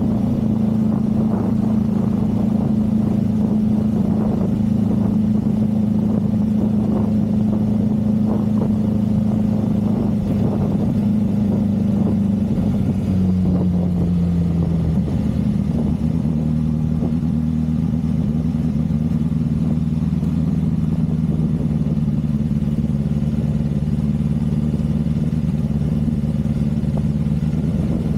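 Motorcycle engine running steadily on the move, its pitch stepping down about halfway through and then holding at the lower note.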